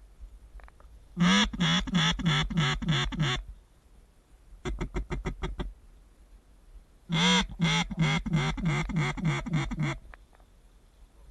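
Mallard duck call blown in quacking runs to bring in approaching ducks: a run of about eight quacks at roughly four a second, a quick run of short clipped notes, then a longer run that starts with a long loud quack and steps down.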